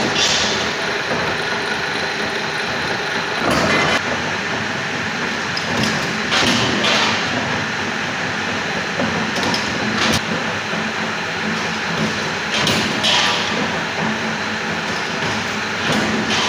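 Punch press machine running steadily, with a sharp metal clank every three seconds or so as it punches holes through UNP 8 steel channel for power-pole crossarms.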